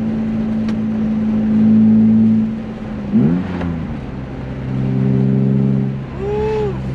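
BMW E36 M3's straight-six engine heard from inside the cabin while driving, its note steady, then changing with a quick swoop in pitch about three seconds in before settling at a new steady pitch. A short rising-and-falling tone sounds near the end.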